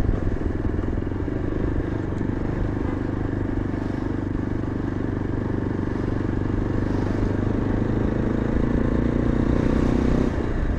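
Yezdi Adventure's single-cylinder engine running steadily under the rider while riding through town traffic. It gets a little louder for a couple of seconds, then eases off shortly before the end as the throttle is rolled back.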